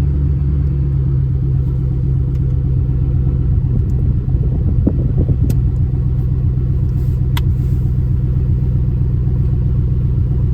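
A Chevy truck's V8 engine idling steadily just after start-up, with a few faint clicks around the middle.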